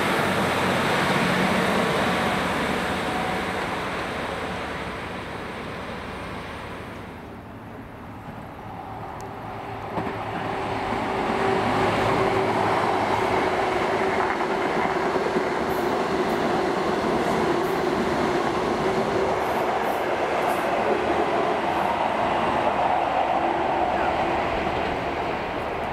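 A passenger train running along the line. The sound fades to a low point about a third of the way in, then rises sharply again and stays loud, with a steady tone running under the rail noise.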